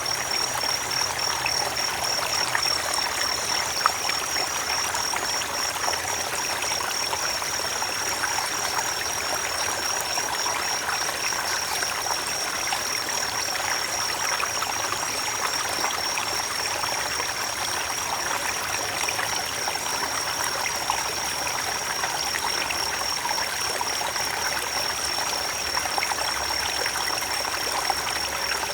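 A creek flowing steadily over rocks, a continuous babbling rush of water. A steady, high-pitched, faintly pulsing tone sits above the water.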